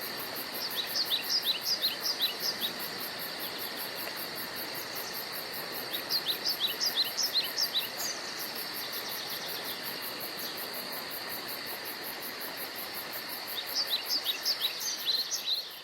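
Forest ambience: insects keep up a steady high drone and a fast, high pulsing chorus, while a songbird sings three bouts of quick down-slurred notes, each about two seconds long and roughly six seconds apart.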